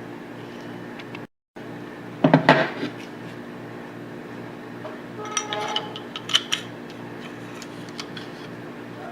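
Steel parts of a Tokarev TT-33 pistol clinking and clicking as they are handled and fitted during reassembly. There is a short clatter about two seconds in, then a run of lighter clicks and clinks around five to six seconds, over a steady low hum.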